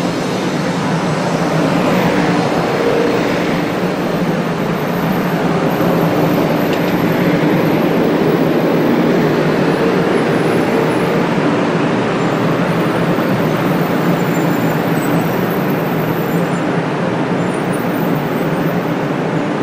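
500 series Shinkansen train moving along the station platform, a steady, loud rumble and rush of wheels and running gear.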